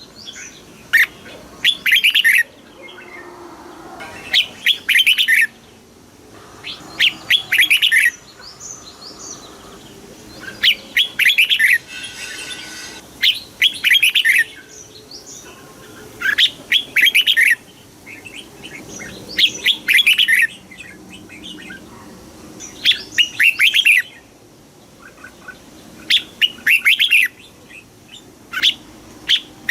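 Red-whiskered bulbul singing: short, bright, warbling phrases repeated about every three seconds.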